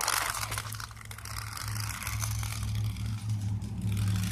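A cheap toy RC car trying to drive through grass, with scraping and rustling over a steady low hum.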